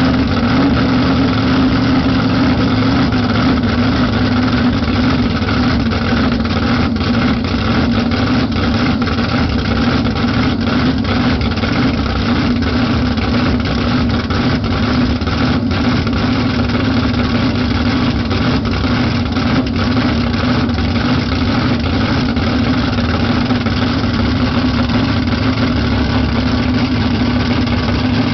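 Camaro drag car's engine idling steadily just after start-up, loud and even with no revving.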